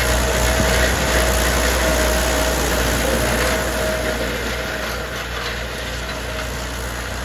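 Belarus tractor's diesel engine running steadily, with a high whine on top that fades out about four and a half seconds in as the engine note eases slightly.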